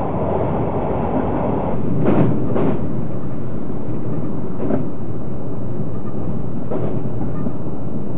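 JR 381-series tilting electric train running at speed, heard inside its rear car: a steady rumble of wheels on rail that grows louder and hissier about two seconds in, as the train comes out of a tunnel onto a bridge. A dull knock from the track comes twice in quick succession, then every two seconds or so.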